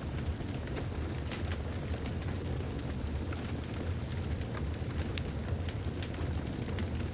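Wood fire burning in a fireplace: a steady low rumble of flames with scattered crackles, and one sharper pop about five seconds in.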